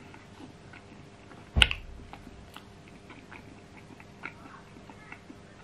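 Close-miked chewing of a cream-filled long john doughnut: soft wet mouth clicks, with one sharp knock about one and a half seconds in.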